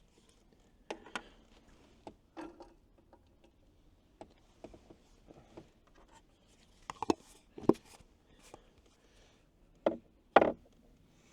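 Peppers being put into an Instant Pot's inner pot on sauté and worked with a utensil: scattered knocks, taps and short scrapes, with the sharpest clicks near the end.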